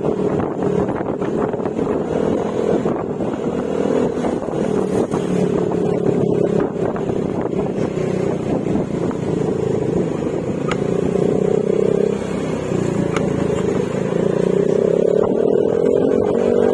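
Yamaha Mio Gravis scooter's single-cylinder engine running on the move through an Akrapovic exhaust with silencer, its note holding fairly steady and then climbing near the end.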